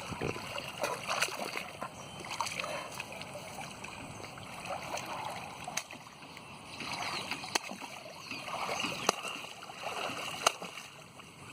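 Shallow pond water sloshing and splashing irregularly around a person pressing a heavy dumbbell while lying in it, with a few sharp clicks scattered through.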